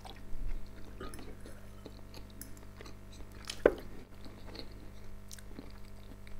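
Close-up chewing of a mouthful of food, with scattered small mouth noises and one sharp click a little past halfway. A steady electrical hum from a lamp runs underneath.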